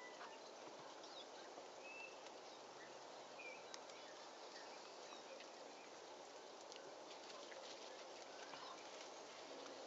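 Quiet background hiss with a few faint, brief bird chirps and some soft ticks.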